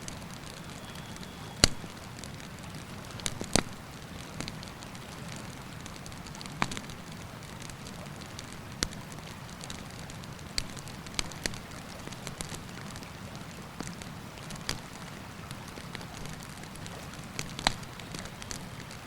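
Wood campfire crackling, with irregular sharp pops, the loudest about two seconds in and near the end, over the steady rush of a river.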